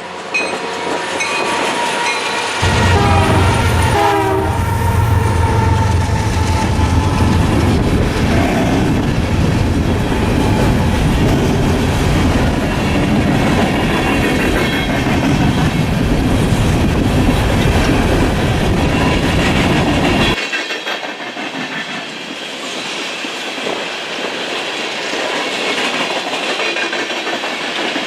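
A BNSF train passing close by. The locomotive horn sounds and drops in pitch as the lead unit goes past about four seconds in, and the heavy diesel rumble of the locomotives continues until about twenty seconds in. After that it gives way to the lighter clatter of railcars rolling over the rail joints.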